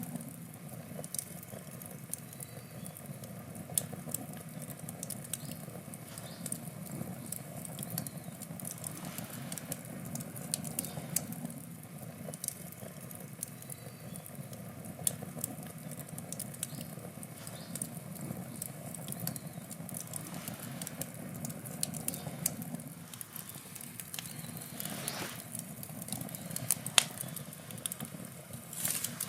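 Wood bonfire burning: a steady low rumble of flame under scattered sharp crackles and pops from the burning wood, with a quick cluster of louder pops near the end.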